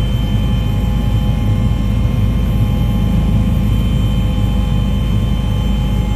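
Aircraft engine running with a steady drone, with a few steady whining tones above it; it cuts off suddenly at the end.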